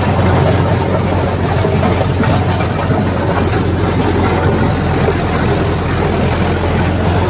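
Mahindra Yuvo 575 tractor's four-cylinder diesel engine running steadily with a deep, even drone.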